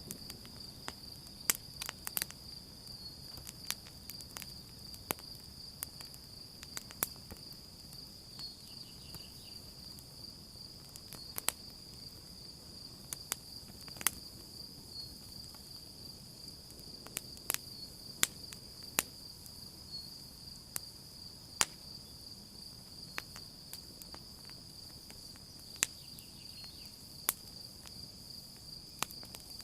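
Campfire crackling, with sharp pops at irregular intervals, over a steady high trill of crickets.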